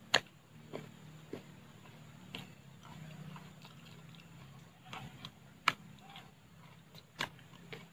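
Close-up mouth sounds of a person biting into and chewing coconut flesh, with sharp clicks and smacks roughly every second.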